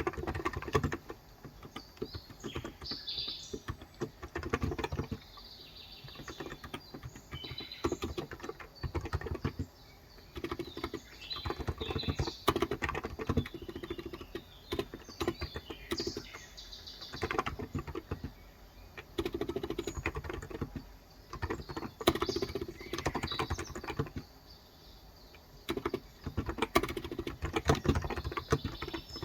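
Fast typing in bursts on a COX Endeavor electro-capacitive (Topre-style) 35 g tenkeyless keyboard, muted key thocks with short pauses between runs. Birds chirp faintly in the background.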